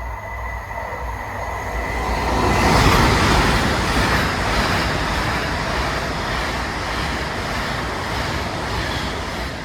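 Class 390 Pendolino electric train passing through the station, a rushing rumble that swells to its loudest about three seconds in and stays loud as the coaches go by.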